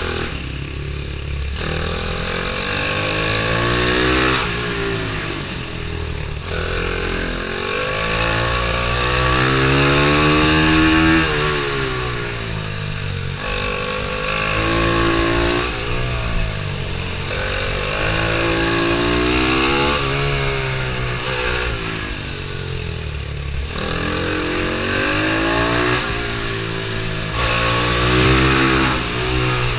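Pitbike's small single-cylinder engine racing around a track, revving up and dropping back over and over, its pitch rising and falling every few seconds as the rider accelerates out of corners and brakes into them.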